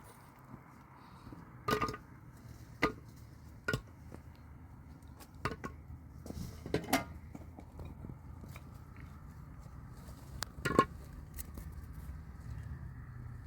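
Irregular sharp knocks and clinks of hard objects striking each other, about six over a few seconds, the loudest near the end, typical of tools and blocks being handled in building work.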